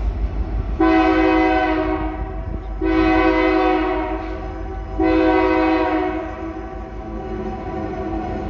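Locomotive horn sounding three long blasts of a multi-tone chord, each about two seconds, the last trailing off. A steady low rumble runs beneath.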